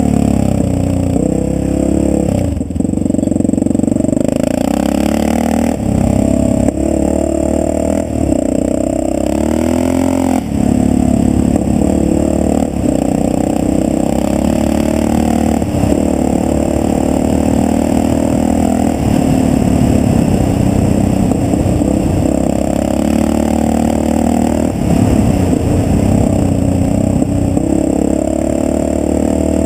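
Yamaha XT600's single-cylinder four-stroke engine running hard under load on a gravel track. Its pitch shifts with throttle and gear changes several times in the first ten seconds, then holds fairly steady.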